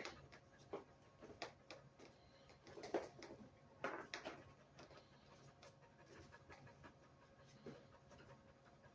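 Faint, irregular dog panting mixed with soft clicks and rustles from a plastic e-collar being handled, with a couple of louder puffs about three and four seconds in.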